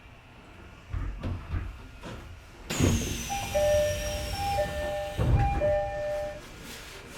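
Electric commuter train running on the rails: a few low clunks, then a sudden loud rush about three seconds in with a thin whistle sliding down in pitch, while a two-note tone sounds three times over it and fades out near the end.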